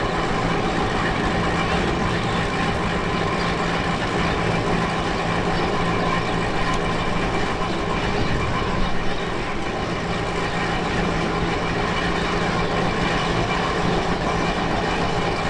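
Steady running noise of a vehicle in motion: a continuous rumble with a few steady hum tones that barely change.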